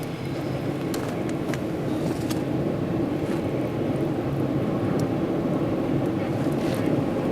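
Wood campfire burning, a steady rushing noise with a few sharp crackles and pops.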